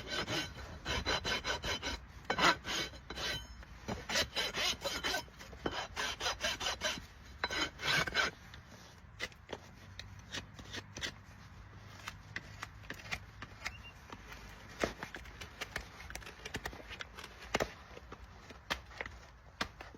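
Farrier's rasp filing a horse's hoof in quick repeated strokes for about the first half, then only scattered light clicks and taps.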